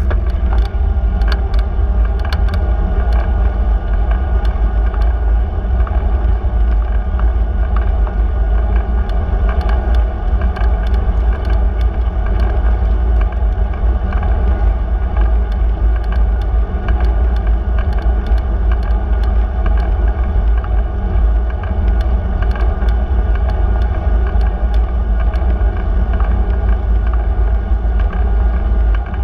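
Steady low rumble of wind and road noise from a moving bicycle, with scattered small clicks and rattles.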